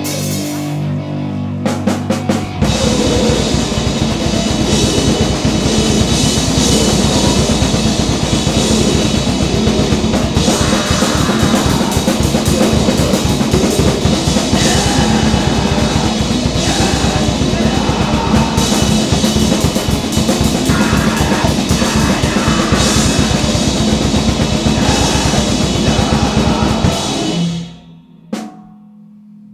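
Grindcore/noise band playing: very fast drumming with cymbals under a dense wall of distorted instruments. It cuts off abruptly near the end, leaving a steady low amplifier hum.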